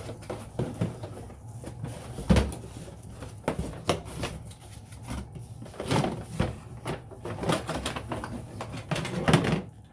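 Cardboard box and packaging being handled during an unboxing: rustling with scattered clicks and knocks, and a louder thump about two seconds in.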